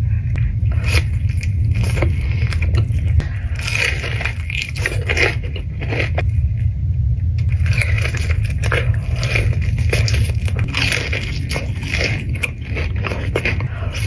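Close-miked eating: irregular crunching, biting and chewing, over a steady low hum.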